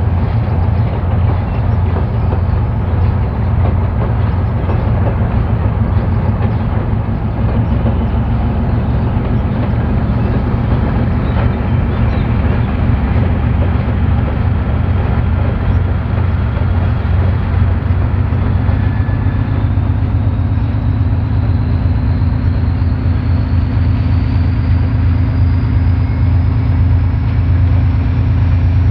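3TE10M diesel locomotive's 10D100 two-stroke opposed-piston diesel engines running steadily, hauling a freight train, with a deep continuous throb. A high whine rises slowly in pitch over the last several seconds.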